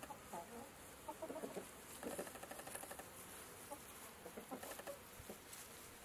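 Chickens clucking softly: short scattered calls with faint rapid ticking beneath.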